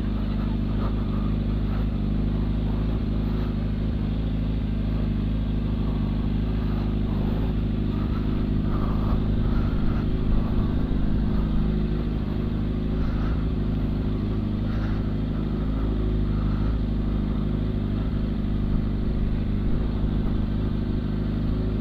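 Suzuki GSX-R 750 SRAD's inline-four engine running at steady, even revs as the motorcycle rolls along a broken mountain road.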